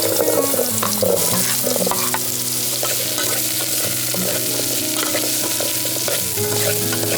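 Food sizzling steadily as it fries in a pan, with soft background music.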